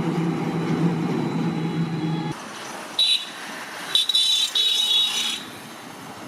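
A vehicle engine running steadily with a low hum, cut off abruptly about two seconds in. Then quieter street ambience follows, with a few short high-pitched sounds.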